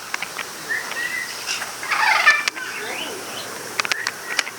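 Caged parrots calling: scattered short chirps, whistles and sliding squawks, with a few sharp clicks.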